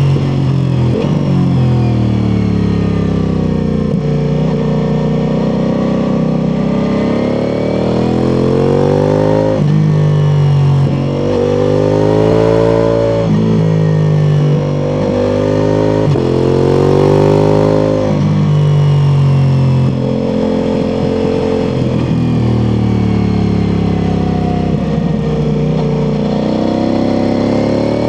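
Ducati Multistrada V4 Pikes Peak's V4 engine through an Akrapovič exhaust, pulling hard and shifting through the gears. Its pitch climbs under throttle and drops sharply at each shift or roll-off, over and over.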